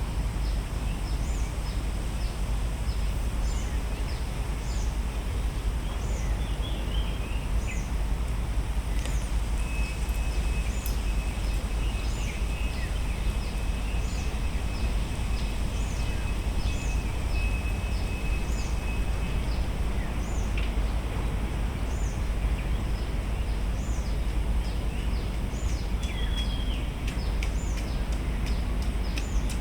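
Outdoor park ambience: a steady low rumble under a bird's short, high call repeated evenly every second or so. In the middle a steady high tone holds for about ten seconds.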